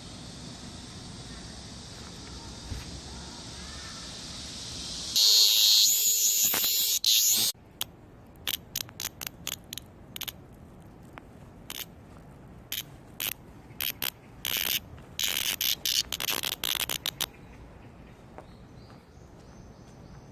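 Cicada buzzing loudly close by for about two seconds, then breaking into a string of short rasping buzzes. A steady high hiss of insects sits underneath before the loud buzz.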